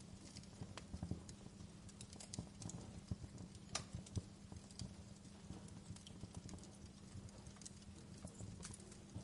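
Wood fire crackling in a fireplace: irregular sharp pops and snaps over a steady low hum, with the loudest snap about four seconds in.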